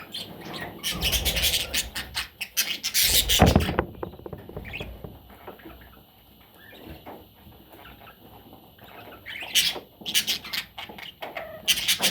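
Budgerigar chattering and chirping in rapid bursts, loudest in the first few seconds and again near the end, with a quieter stretch between. A few low thumps come through under the calls.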